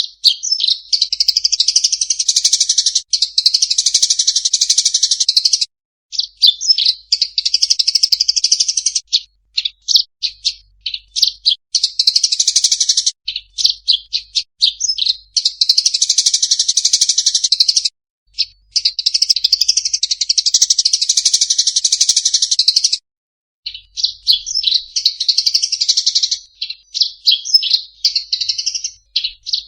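A small songbird singing long, rapid, high-pitched twittering phrases of several seconds each, separated by short pauses; the song starts abruptly out of silence.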